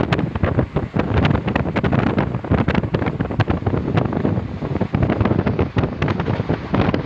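Wind buffeting the microphone: a loud, uneven rumble with frequent crackles.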